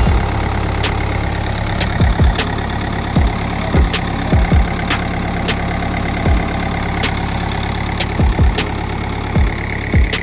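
Freshly overhauled Mitsubishi K4F diesel engine of a road roller idling steadily and evenly. Irregular sharp clicks and short knocks sound over it.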